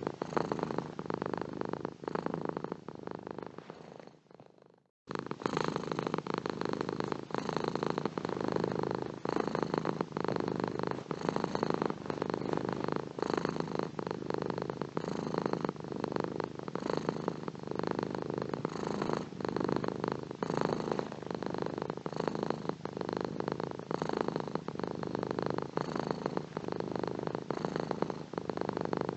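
Domestic cat purring steadily and close up. About four seconds in the purr fades away to silence, then comes back abruptly a second later.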